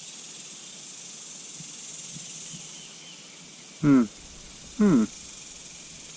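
Steady high-pitched drone of insects such as crickets along the riverbank. About four and five seconds in come two short, loud vocal sounds from a man, each falling in pitch.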